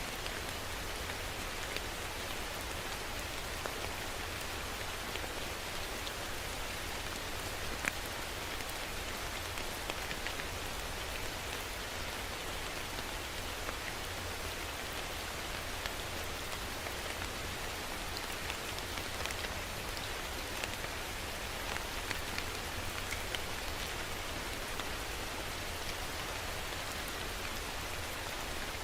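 Steady rain falling and pattering on a surface, with scattered individual drops ticking through the even hiss.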